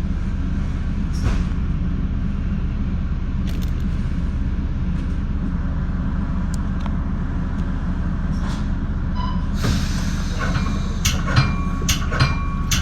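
Standing Metra bi-level commuter train, a steady low hum of its running equipment heard from inside the front cab car. Sharp clicks and knocks come in over the last few seconds.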